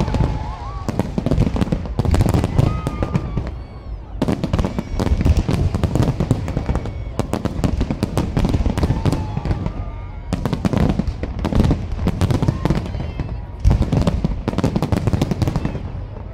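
A fireworks display: a dense, overlapping run of bangs and crackle from bursting aerial shells. It thins briefly about four seconds in and again near ten seconds.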